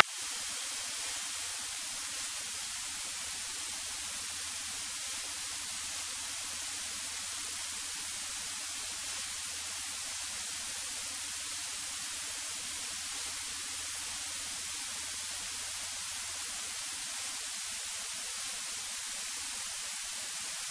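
Steady hiss of a light aircraft's cockpit intercom audio feed with no one talking. A faint low hum runs underneath and fades out near the end.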